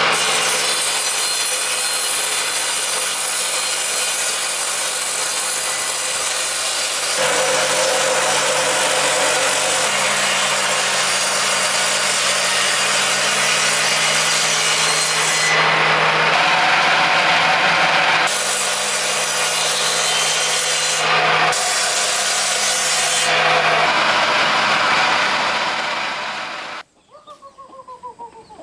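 Electric power tool cutting or shaving wood, running continuously with a steady motor hum under the rasping of the wood; it cuts off suddenly near the end, leaving faint bird calls.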